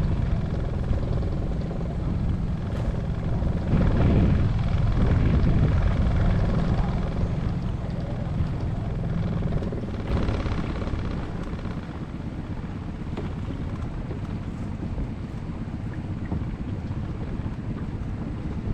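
Small four-stroke outboard motor running steadily under way, with wind buffeting the microphone. The drone swells about four seconds in and eases off after about seven seconds.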